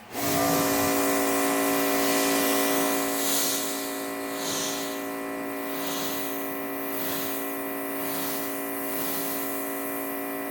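Adams Pressure Washer 2.0 kicking on and running with a steady whine, its water jet hissing and swelling and fading about once a second as the spray is swept back and forth.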